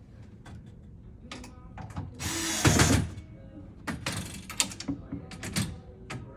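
Screws being driven to fasten the bed's slats to the frame: scattered sharp clicks, then two louder bursts, the first and loudest about two seconds in and nearly a second long, the second about four seconds in.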